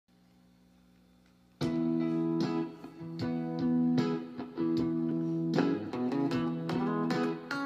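Fender Telecaster electric guitar played through a hand-built 5F1 Tweed Champ tube amplifier: a faint steady hum, then picked notes and chords starting suddenly about a second and a half in.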